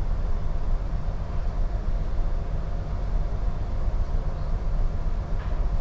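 Steady low rumble of a container ship's machinery heard on the bridge: the main engine turning slow ahead, with an even hiss over it.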